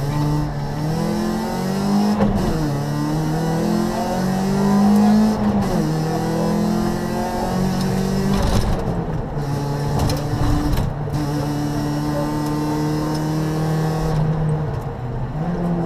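Rally car's engine heard from inside the cabin, pulling hard through the gears: the pitch climbs and drops back at each upshift, about every three seconds at first, then holds steady for several seconds before dropping and climbing again near the end. A few short knocks come through about halfway.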